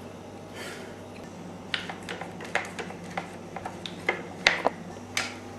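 Light, irregular metal clicks and ticks of a hand tool undoing small bolts from an RC buggy's chassis, about a dozen scattered clicks, the loudest about four and a half seconds in.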